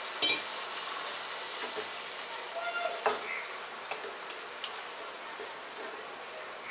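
Chicken pieces in saoji masala sizzling in a non-stick kadhai just after a little water has been added, stirred with a wooden spatula, with a couple of sharp knocks against the pan.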